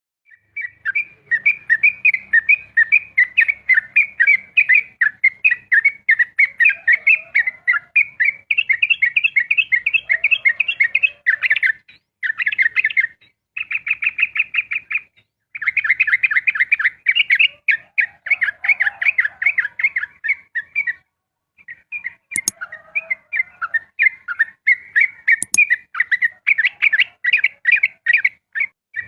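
Yellow-vented bulbul (trucukan) singing its 'ropel' song: a long, fast run of chattering notes with only short breaks. Two sharp clicks in the second half.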